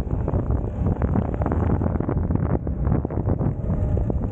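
Wind buffeting the microphone on a moving Suzuki V-Strom motorcycle, with the engine running beneath it.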